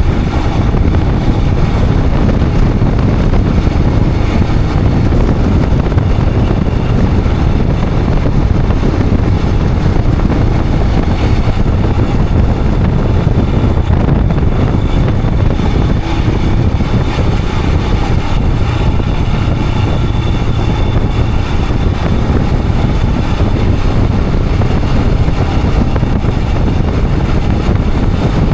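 Royal Enfield Himalayan 411's single-cylinder engine running steadily while riding, a low rumble mixed with wind rushing over the action camera's microphone.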